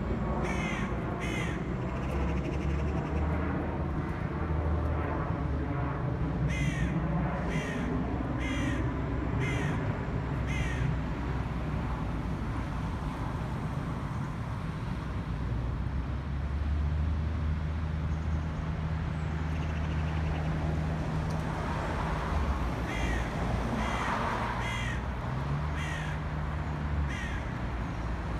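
Crows cawing in short repeated runs of calls, in bursts near the start, in the middle and again near the end, over a steady low rumble of traffic.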